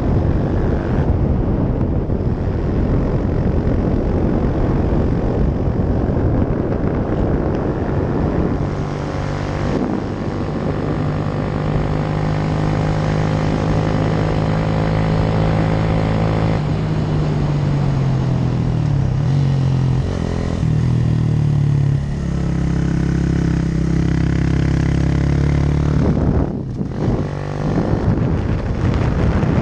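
Yamaha YS125's single-cylinder four-stroke engine pulling uphill through a LeoVince aftermarket exhaust, with wind noise. The engine note holds steady, wavers and drops in pitch about two-thirds of the way through, and briefly falls away near the end as the throttle is closed.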